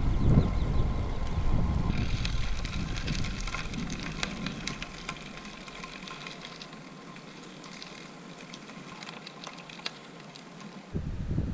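Bicycle tyres crackling over a gravel dirt road, with many small irregular ticks. Wind buffets the microphone for the first few seconds, dies away, and gusts back in near the end.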